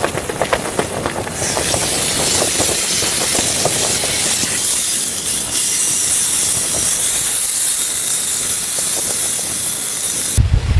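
A loud, steady hiss, crackling for the first second or so, that cuts off abruptly near the end.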